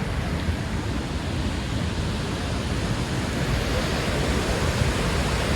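Steady rushing of fast-flowing creek water, a loud even hiss with a rumble underneath.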